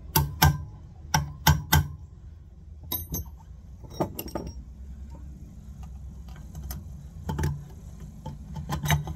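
Sealed bearings being tapped into a motorbike's rear wheel hub: sharp metallic knocks in short clusters, the bearings being driven back and forth until both sides are fully seated.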